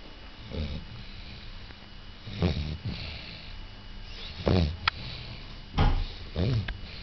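A sleeping Cavalier King Charles Spaniel snoring, about five snores at uneven intervals, the loudest about four and a half and six seconds in.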